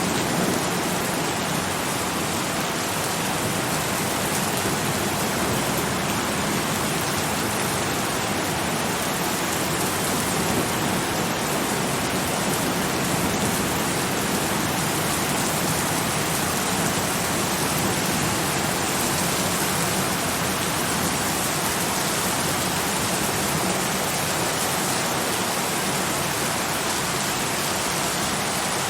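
Steady heavy rain, a dense, even hiss of falling rain with no distinct drops or thunder standing out.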